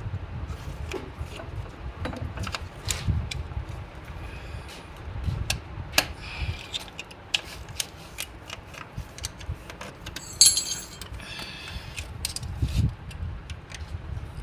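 Metal hand tools and tractor parts clinking and scraping during disassembly work, with scattered light clicks, a sharp clank about six seconds in and a louder metallic clatter at about ten seconds.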